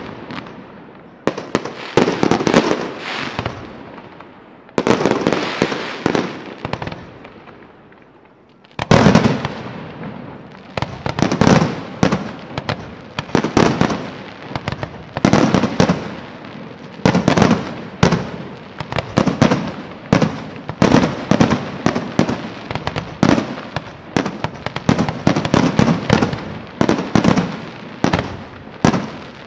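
Aerial fireworks bursting in a display. A few separate loud bangs come in the first eight seconds, then from about nine seconds a rapid run of bangs, roughly one or two a second, each trailing off in echo.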